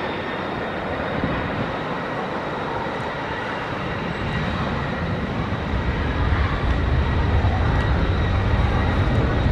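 Boeing 747-400 freighter's four jet engines running, a steady whine over broad engine noise, with a deep rumble growing louder from about six seconds in.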